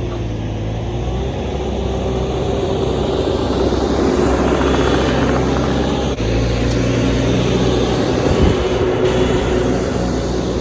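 A large engine running steadily, with a noisier mechanical layer that builds through the middle, and an abrupt change in the sound about six seconds in.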